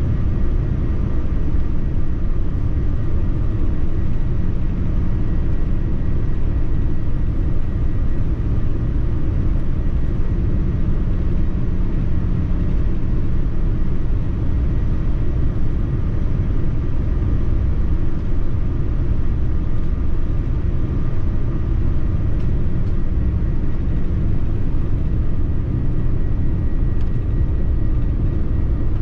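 Steady, unbroken low roar of engine and airflow noise inside a Boeing 787-9 airliner cabin, with a faint steady whine above it.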